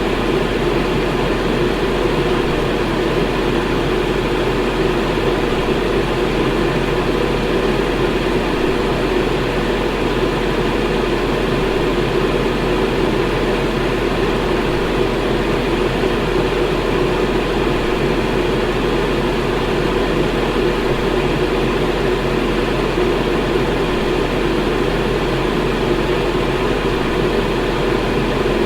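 Electric fan running steadily: an even airy whir with a low hum underneath, unchanging throughout.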